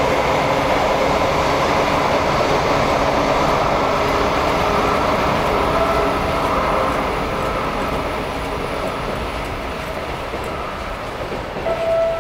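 A Joetsu Shinkansen train running through the station. Its noise is steady for the first half, then fades gradually, and a brief squeal comes near the end.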